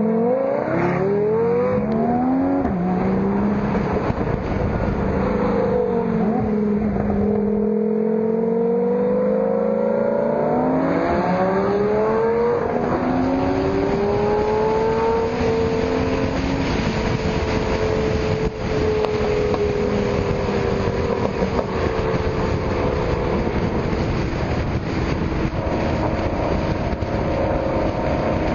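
Sports car engines and loud exhausts accelerating and driving by, the engine pitch climbing and then dropping at each gear change, with several cars overlapping.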